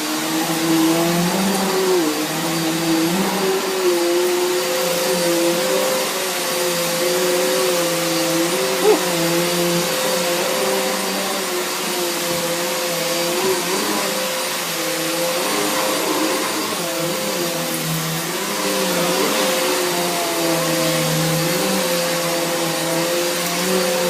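1400-watt Hoover Boss vacuum cleaner running steadily, its motor hum wavering slightly in pitch as it works. A brief click about nine seconds in.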